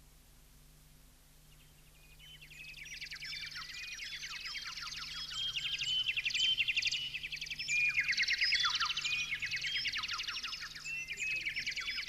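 Birdsong fades in about two seconds in: several birds chirping and trilling over one another. A faint steady low hum lies underneath.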